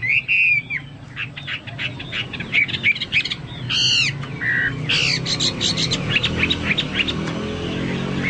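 Chinese hwamei singing continuously, a fast, varied song of whistled notes and rapid trills in the style of a cucak mas or cucak papua, picking up about a second in.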